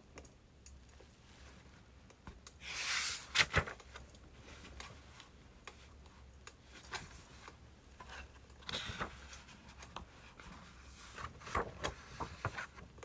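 Wood fire of birch logs crackling, with irregular sharp pops and a quick cluster of them near the end. A soft rustle swells up briefly twice, about three seconds in and again about nine seconds in.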